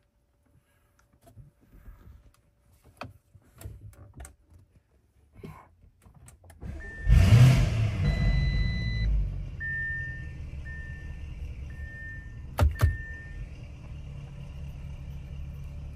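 2021 Lamborghini Urus's 4.0-litre twin-turbo V8 starting about seven seconds in, flaring up briefly and settling to a steady idle, after a few faint clicks. An electronic chime sounds as it starts, followed by four short beeps about a second apart, and two sharp clicks come near the end.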